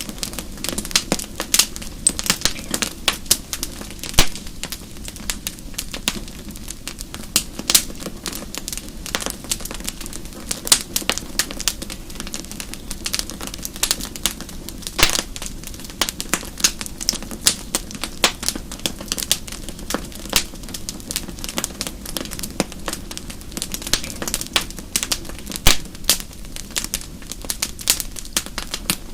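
Wood fire burning in a fireplace: dense, irregular crackling and popping of burning logs over a low steady rumble of the flames.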